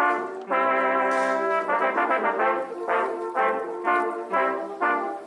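Brass music, trumpets and trombones, playing a long held chord and then a run of short, punchy chords about twice a second.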